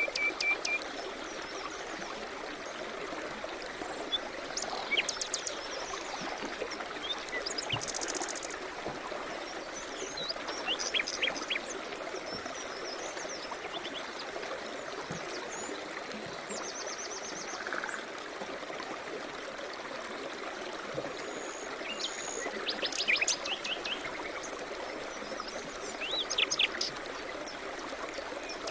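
A river or stream flowing steadily, with several birds chirping and trilling now and then above the rush of water.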